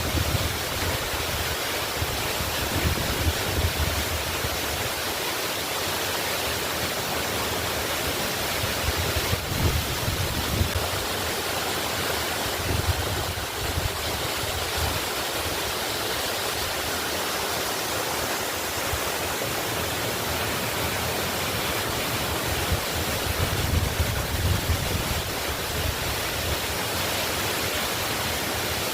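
Waterfall: a steady rush of falling water, with an uneven low rumble beneath it.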